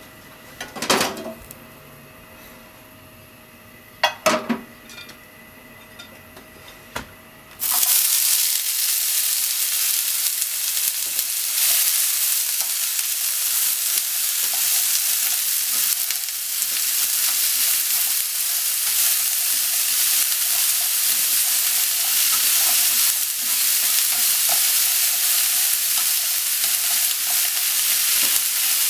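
A few sharp knocks, then about eight seconds in a sudden loud sizzle as sliced onion and mushrooms go into hot oil in a nonstick frying pan. The sizzling carries on steadily while chopsticks stir and toss the food.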